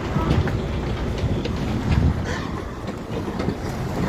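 Heavy livestock truck's diesel engine rumbling as the truck moves off, with clattering and knocking from the rig.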